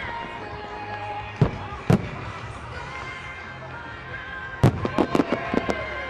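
Fireworks display set to music: single sharp bangs about one and a half and two seconds in, then a quick run of cracks and bangs in the last second and a half, over steady music.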